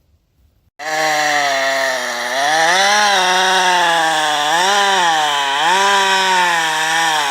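A petrol chainsaw running at high revs and cutting into wood. It starts suddenly about a second in, and its pitch dips and recovers several times as the chain takes the load of the cut.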